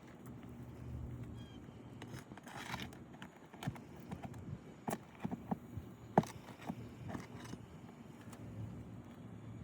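Irregular knocks, taps and scrapes from work on an asphalt shingle roof, the sharpest knock about six seconds in.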